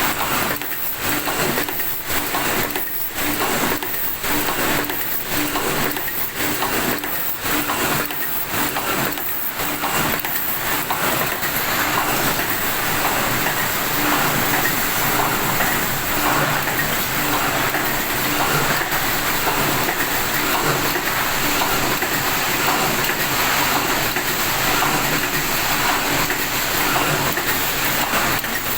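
Automatic tipping machine running, clattering with regular strokes over a steady mechanical hum and hiss. The strokes are distinct for the first ten seconds or so, then blend into a denser, steadier clatter.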